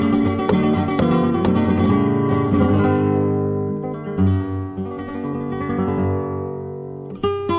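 Acoustic guitar playing in a flamenco style: rapid plucked strokes for the first couple of seconds, then held notes left ringing and slowly fading, with a short flurry of strokes near the end.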